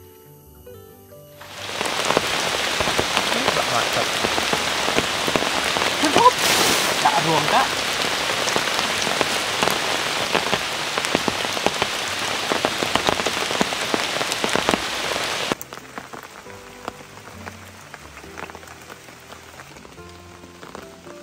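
Steady rain with many separate drop hits, loud and close. It starts suddenly about a second and a half in and cuts off abruptly about fifteen seconds in, leaving soft background music.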